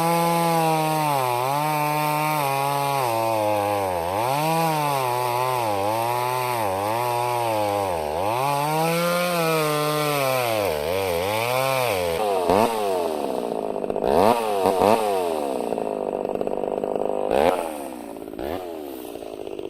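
Two-stroke chainsaw engine revving up and down over and over, about once a second, with a few sharp upward revs in the later part; it falls quieter near the end.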